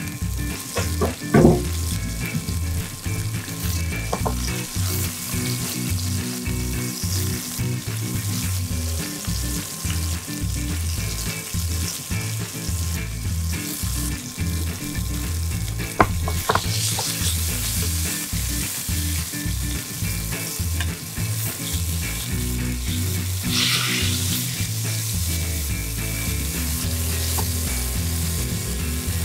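Skirt steak searing in olive oil in a hot frying pan over medium-high heat: a steady, continuous sizzle, with a few sharp clicks along the way.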